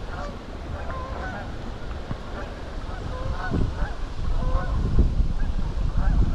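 Geese honking repeatedly, over a heavy rumble of wind buffeting the microphone.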